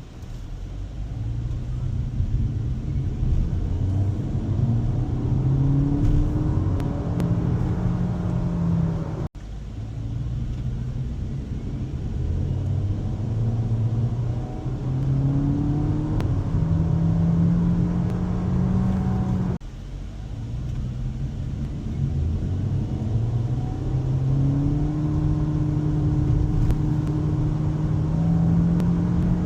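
MG ZS Hybrid+ hybrid powertrain accelerating hard from a standstill to 100 km/h, three runs one after another: in each the engine note climbs, drops back and climbs again as it moves up through its gears. The sound breaks off abruptly twice, about a third and two thirds of the way through, and starts low again.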